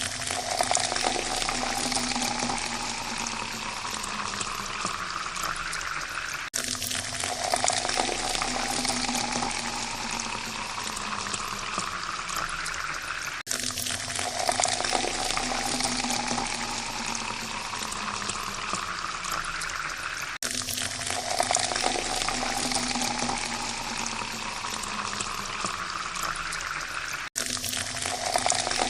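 Water being poured into a glass, the pouring tone rising in pitch as the glass fills. The same pour restarts after a brief break about every seven seconds, four times.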